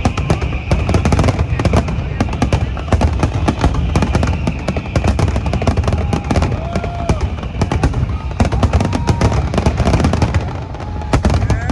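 Dense barrage of firework shells bursting in rapid succession, a continuous crackle of bangs over a deep rumble, with the show's music playing underneath.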